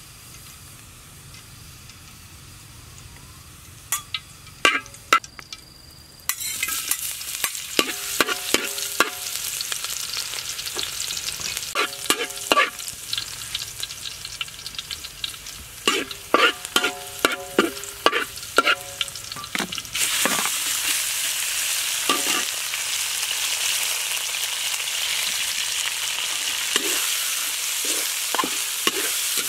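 Hot oil in a steel wok bursts into a sizzle about six seconds in as chopped aromatics go in, with a metal spatula scraping and clanking against the wok in quick runs of ringing knocks. About two-thirds of the way through the sizzle turns louder and denser as raw pork slices hit the oil and are stir-fried.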